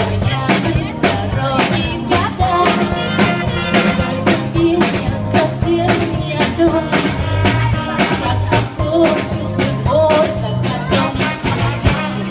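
Jazz orchestra playing an upbeat, even-beat tune, with drum kit and rimshots under the melody instruments.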